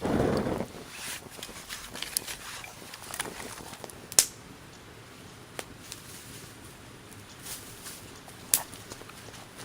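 Wood campfire crackling: sharp, irregular pops and snaps over a low hiss, with two louder cracks about four and eight and a half seconds in. A brief rush of noise opens it.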